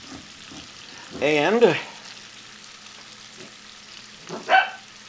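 Cubed chicken breast and onions frying in butter in a skillet: a steady low sizzle.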